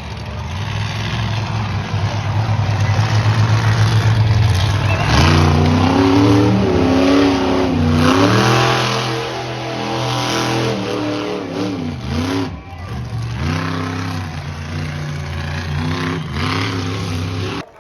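Monster truck engines running loud, at first a steady heavy drone, then revving hard with the pitch swinging up and down again and again as the trucks race over the track's hills. The revs drop briefly about two-thirds of the way through.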